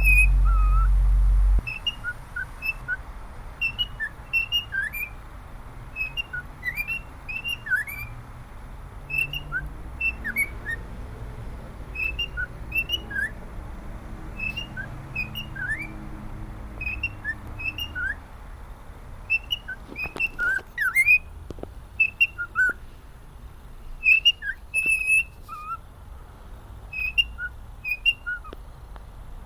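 Pet cockatiel whistling a melody: a long run of short, clear whistled notes, many of them quick upward slides. A loud low rumble covers the first second and a half.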